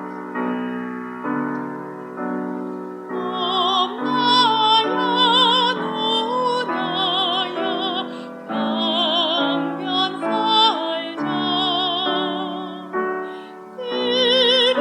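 Piano accompaniment playing chords, joined about three seconds in by a soprano singing in classical operatic style with a wide vibrato.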